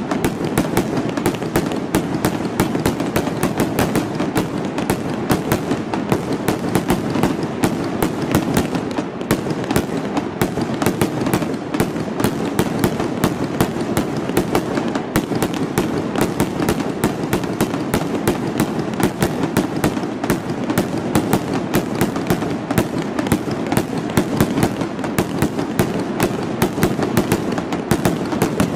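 Fireworks display: a rapid, unbroken string of small aerial shells popping and crackling, many bursts a second, as rising comet trails burst overhead.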